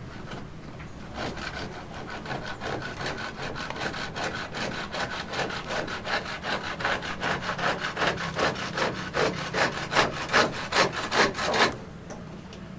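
Hand saw cutting through wood in steady back-and-forth strokes, about two to three a second. The strokes grow louder toward the end and stop suddenly near the end.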